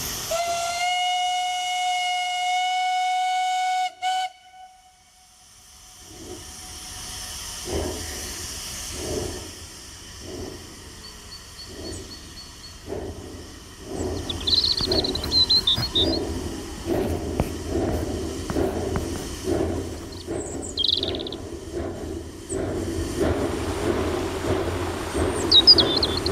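Mocanita narrow-gauge steam locomotive blowing its whistle in one steady note for about three and a half seconds. After a pause it starts chuffing in a slow, even beat that quickens as it pulls away, with steam hissing.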